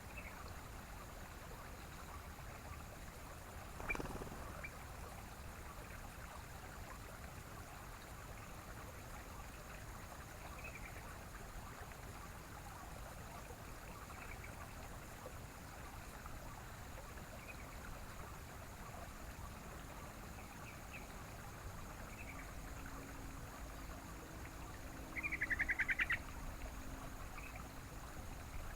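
Sooty-headed bulbul giving short, sparse chirps over a steady hiss of running water. A louder rapid chattering trill falls in pitch at about 25 seconds in, and there is a single sharp knock about 4 seconds in.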